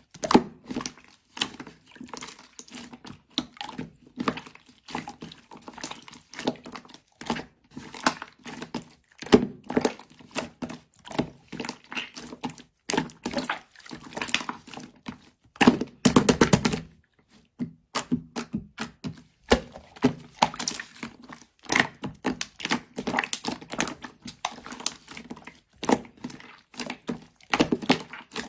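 A dense, irregular run of small clicks, taps and crackles, with a louder, denser burst of crackling about sixteen seconds in.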